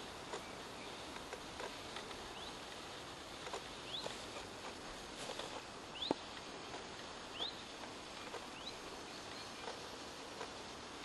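A small bird calling: about six short, high, rising chirps, roughly one every second and a half, over a steady outdoor hiss. There are a few faint clicks, the sharpest about six seconds in.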